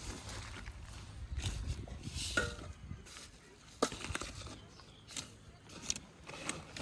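A few scattered short clicks and knocks, the sharpest about four seconds in.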